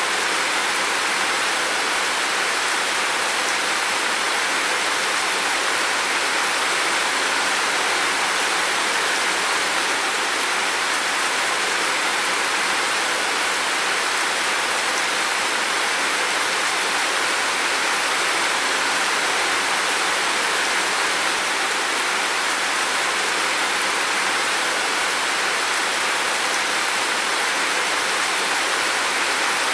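Heavy rain falling in a dense, steady hiss with no distinct drops or thunder.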